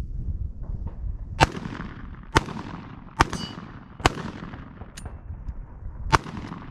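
Five shots from Smith & Wesson M&P15 AR pistols chambered in 5.56 with 7.5-inch barrels and blast cans, about a second apart, the last after a two-second pause. Each shot is a sharp crack with a short echoing tail.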